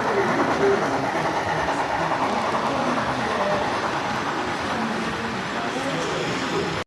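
Model train running on an exhibition layout, a steady rolling rumble of wheels on track over the hum of the hall.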